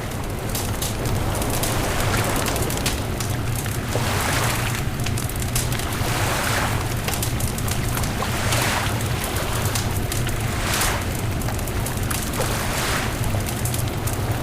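Beach bonfire crackling with a steady stream of small pops and snaps, over a constant low rumble and a rushing noise that swells and fades every two seconds or so.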